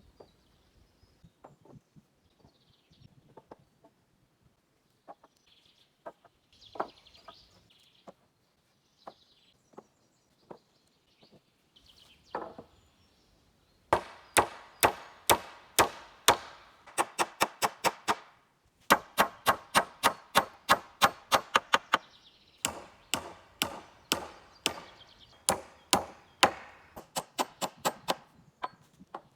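A tool striking wood: rapid, sharp blows of about four a second in three runs, starting about halfway through, after scattered light knocks.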